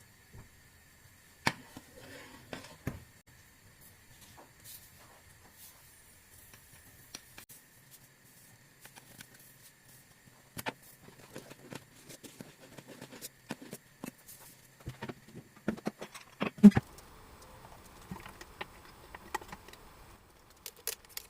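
Scattered light clicks, taps and knocks of kitchen items being handled, with the loudest knocks about two-thirds of the way in. A faint steady high whine runs under them until that point.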